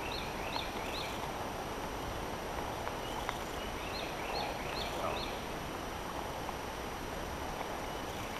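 A songbird singing a phrase of about four quick repeated high notes, once at the start and again around four seconds in, over a steady outdoor hiss. A faint click about three seconds in.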